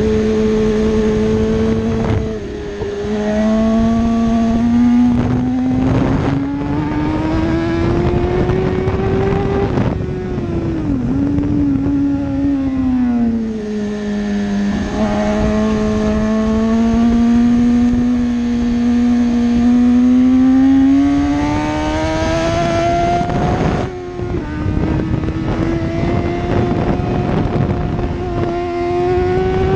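BMW sportbike engine being ridden hard on a track, its note climbing slowly and then dropping sharply several times as the rider accelerates, shifts and slows, over a steady rush of wind.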